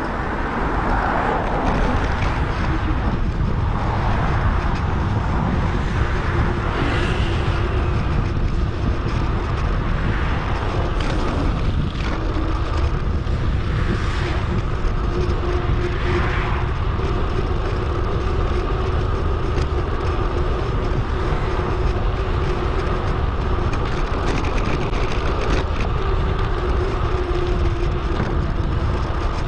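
Wind buffeting an action camera's microphone on a moving bicycle, with road and tyre noise, as a steady rumbling rush. A steady low hum joins in over the second half.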